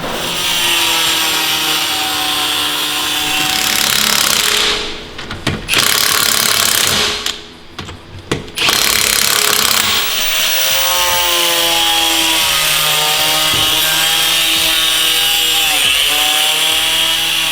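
Power tool cutting into car bodywork, its motor pitch sagging and recovering as it bites, with two short pauses partway through.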